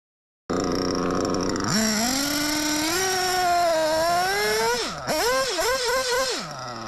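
Reds R5R nitro RC engine, running on new bearings, comes in after a brief gap idling, then revs up about a second and a half in and holds high revs with a wavering pitch. Near the five-second mark it drops and is blipped up several times in quick succession, then settles back to a steady idle near the end.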